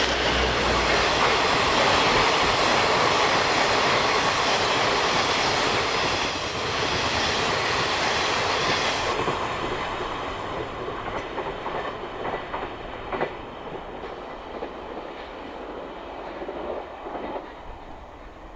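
Passenger train passing at speed, its wheels clattering over the rail joints. The loud rush of the cars goes by for about nine seconds, then recedes and fades, with a few clicks as it moves away.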